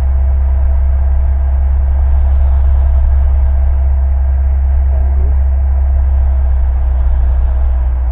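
Steady drone of a Cessna's single piston engine and propeller, heard inside the cockpit in flight.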